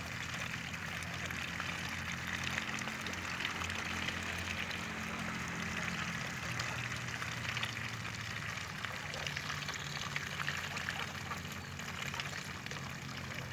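Water trickling and splashing with a dense fine crackle, over a steady low hum.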